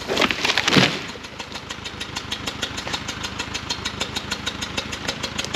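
A loud burst of crackling in about the first second, then the Case 350B dozer's diesel engine idling with a rapid, even clatter.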